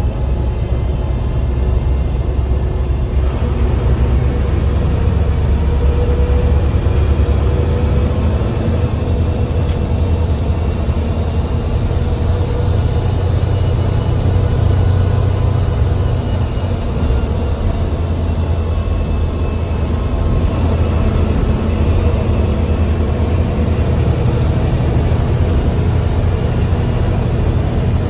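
Benz bus diesel engine running steadily under load, heard from the driver's cabin, with a high turbo whistle coming in about three seconds in and again around twenty seconds in.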